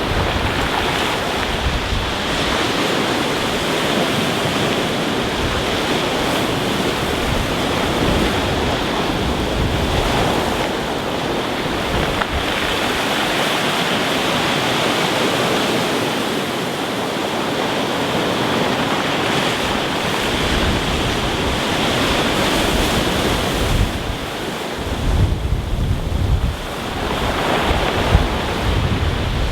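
Rough sea breaking on a pebble beach: a continuous, steady wash of surf. Wind buffets the microphone in gusts near the end.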